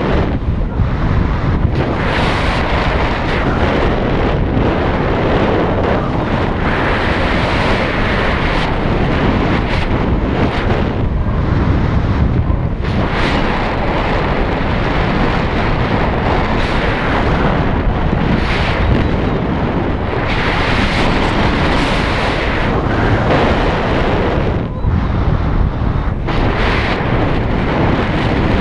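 Heavy wind rushing over the microphone in flight, a loud, steady noise that briefly dips every few seconds.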